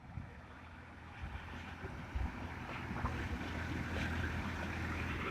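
Massey Ferguson 241 tractor's diesel engine running at a steady pitch, growing gradually louder, with a hiss of wind on the microphone.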